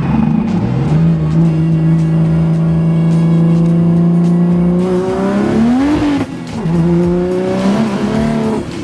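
BMW 135i's 3.0-litre N54 inline-six, converted to a single turbo and running an open downpipe with no exhaust, pulling in a low gear: it holds steady revs for about five seconds, then revs up sharply, falls away about six seconds in, climbs again and falls away once more near the end.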